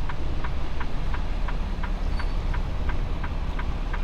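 Semi truck's engine running steadily, a low rumble heard from inside the cab, with a light ticking repeating about three times a second.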